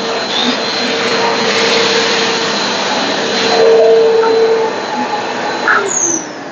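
Black & Decker VM1680 1600 W bagless cyclonic canister vacuum cleaner running with a steady hum and rush of air. About six seconds in it is switched off, and the motor's whine falls in pitch as it spins down.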